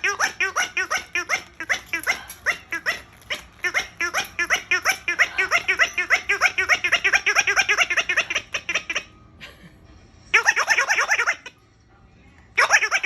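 Electronic giggling from a battery-powered giggle dumbbell bird toy: a long run of rapid laughing pulses that breaks off about nine seconds in, followed by two short bursts of giggling.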